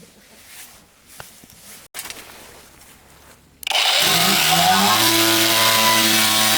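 A few faint clicks, then a motor starts suddenly a little past halfway, rises in pitch for about a second and settles into a steady run.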